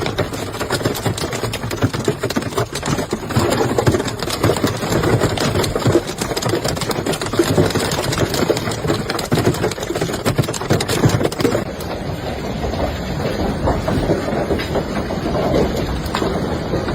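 Hailstones pelting down in a heavy storm: a loud, dense clatter of countless small impacts over the roar of the downpour, thinning a little in its sharpest, highest part about twelve seconds in.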